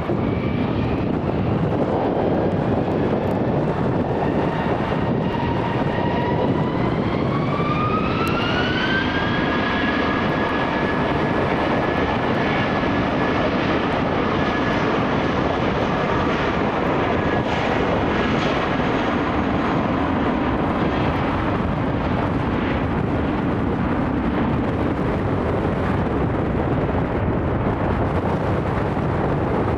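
British Airways Airbus A319's jet engines spooling up to takeoff power: a whine rises in pitch from about six to nine seconds in and then holds, over a steady loud roar.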